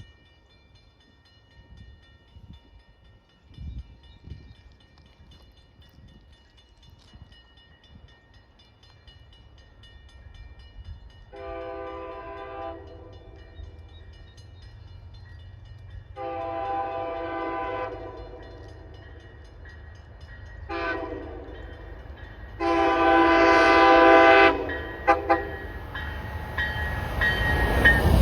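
Approaching commuter train sounding its horn in the grade-crossing pattern: two long blasts, a short one, then a longer, louder final blast, as the train draws nearer. The rumble of the train builds sharply near the end as it arrives.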